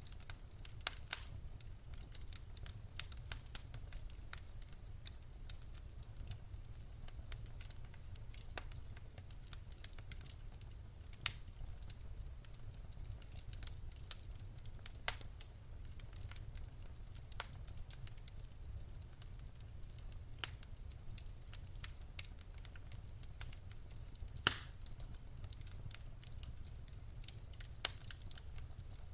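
Wood fire crackling in a fireplace: irregular sharp pops and snaps of burning logs over a steady low rumble of the flames, with a few louder pops scattered through.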